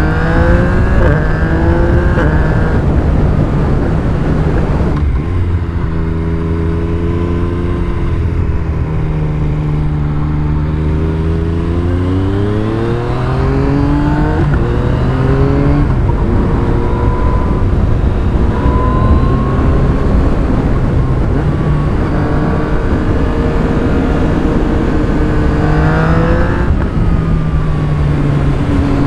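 A 2017 Yamaha MT-09's inline three-cylinder engine running loud through an Akrapovic carbon full-system exhaust with the dB killer still fitted, heard from the rider's position while riding. The revs rise and fall: a rise near the start, a lower steady stretch, a climb about halfway, then more rises near the end.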